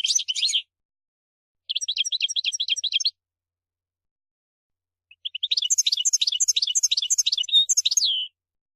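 European goldfinch singing in three phrases of fast twittering, trilled notes: a short burst at the start, another about two seconds in, and a longer, richer run from about five seconds in.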